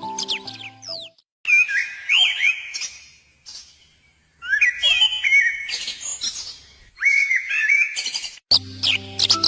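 A pet bird chirping and whistling in several short bursts of rising and falling notes, with a pause of about a second and a half partway through. Background music plays for about the first second and comes back near the end.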